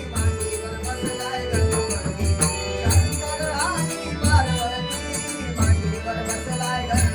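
Traditional Konkan bhajan music: a deep drum keeps a steady beat of about one and a half strokes a second, with small hand cymbals ringing over it and snatches of singing.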